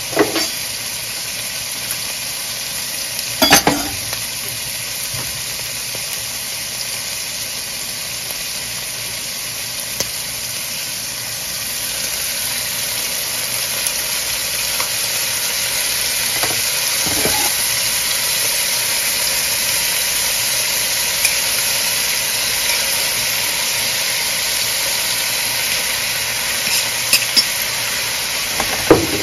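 Diced ham and onion sizzling steadily in a hot nonstick wok. The sizzle grows louder partway through. A few sharp knocks sound from the pan, clustering near the end when kimchi goes in.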